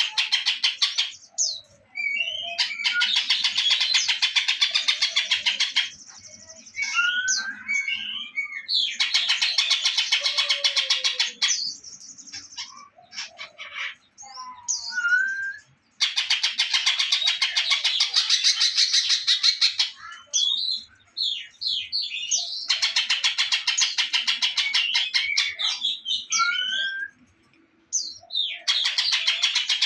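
Recorded songbird song of the kind played as a master track for training caged birds: long stretches of fast, dense chattering trills that cut off abruptly and alternate with shorter passages of separate whistled notes and sliding calls.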